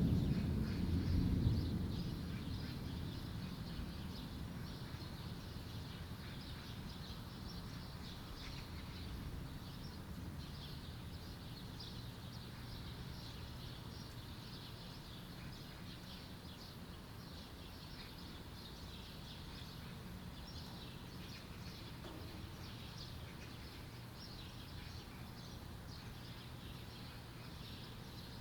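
The last of a thunder rumble dies away over the first couple of seconds, then birds chirp and twitter over a faint steady background.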